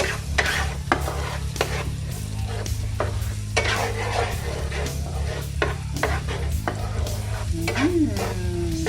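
Garlic frying in melted butter in a pan, sizzling, while a utensil stirs it with repeated taps and scrapes against the pan, about once or twice a second.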